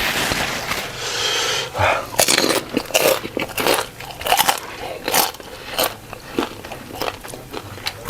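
Close-miked eating: a person biting and chewing crunchy food, with irregular crunches and crackles every fraction of a second.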